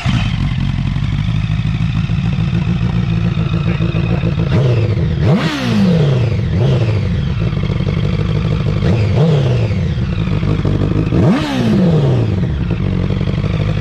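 Honda CBR1000 sportbike's inline-four engine idling, blipped a few times, with two sharp revs about five and a half seconds and eleven and a half seconds in that climb quickly and drop straight back to idle.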